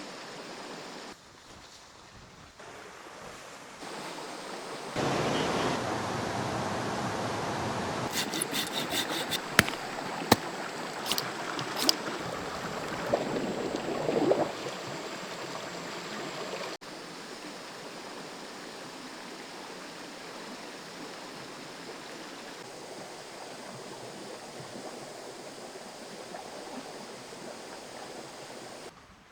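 Flowing stream water rushing steadily, its loudness jumping up and down at several cuts. It is loudest for about the middle third, where a cluster of sharp clicks and knocks comes through.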